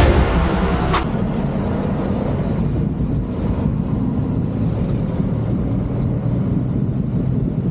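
Motorcycle riding along the road: a steady low mix of engine and wind noise. A music track fades out about a second in.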